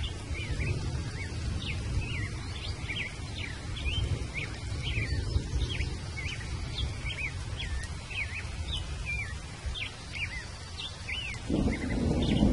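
Small birds chirping, several short chirps a second, over a steady low rumble. A louder rushing noise comes in near the end.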